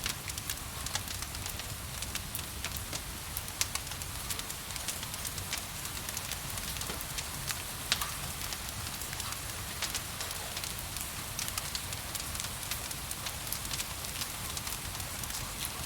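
Wood fire crackling and popping with many sharp irregular snaps, the loudest about eight seconds in, over a steady hiss of rain.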